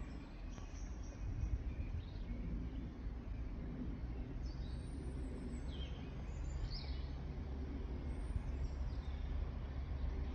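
Small birds giving a few short chirps, mostly in the middle, over a steady low background rumble.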